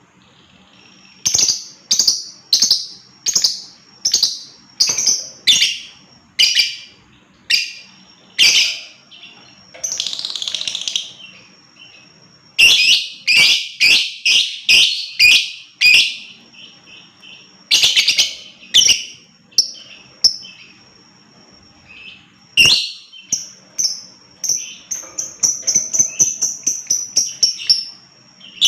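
Lovebird calling in loud, shrill, sharp chirps, singly and in quick clusters, breaking into a fast chattering run of about five chirps a second near the end. A thin, steady, high whistle runs beneath much of it.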